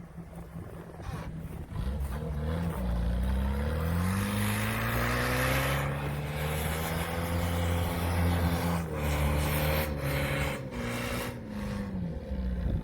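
UAZ 4x4's engine revving under load. Its pitch climbs over about two seconds, holds high for several seconds, then drops back about three quarters of the way through.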